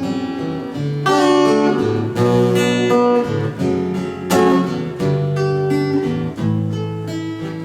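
Acoustic guitar strummed in chords, an instrumental passage of a live song with no singing, the chord changing about once a second.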